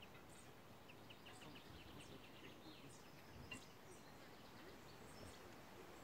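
Near silence: faint small birds chirping in quick short notes over quiet outdoor background noise.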